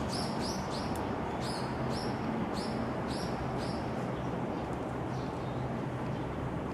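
A small bird chirping: a quick run of short, high, downward-sliding chirps, about three a second, that fades out about halfway through, over a steady low background rumble.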